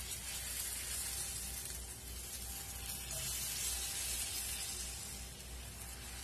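Thin rava dosa batter sizzling on a hot nonstick tawa, a steady, even hiss as the lacy batter sets.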